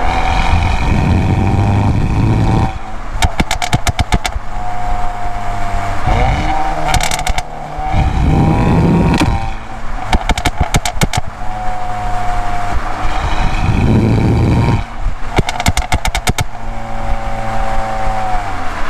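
Audi A3's turbocharged 2.0-litre four-cylinder with an aftermarket downpipe and resonator delete, pulling hard three times. Each pull is followed by a rapid burst of exhaust crackles and pops as the revs fall off on lift-off. The exhaust has a raspy, tinny tone.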